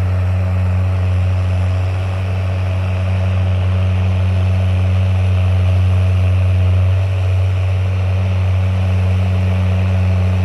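Deutz-Fahr 6175G tractor's six-cylinder diesel engine running steadily, a low even drone that holds the same pitch throughout.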